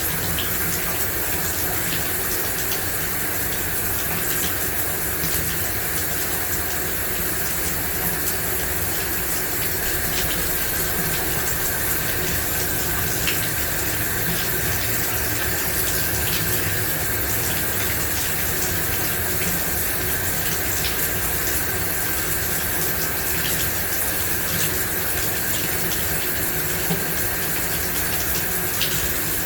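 Shower running: a steady, even spray of water, with small drips and splashes now and then.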